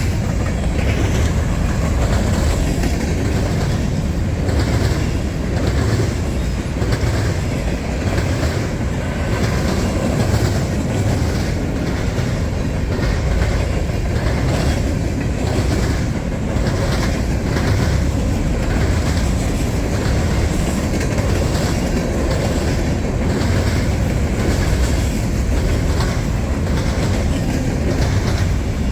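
Freight train cars rolling past close by, a steady rumble with a regular clickety-clack of wheels over rail joints.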